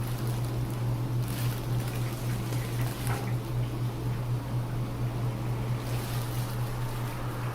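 A motor running steadily, with a constant low hum and a rushing noise over it.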